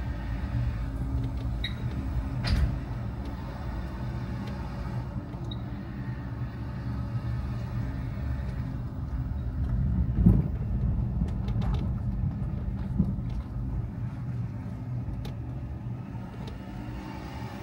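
Car engine and road noise, a steady low rumble, with a few sharp knocks, the loudest about two and a half seconds in and about ten seconds in.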